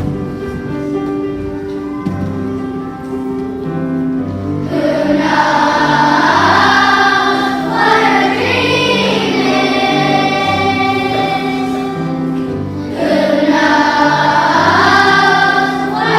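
Instrumental accompaniment with a stepping bass line, then about five seconds in a children's choir starts singing over it, with a short break for breath a little before the end.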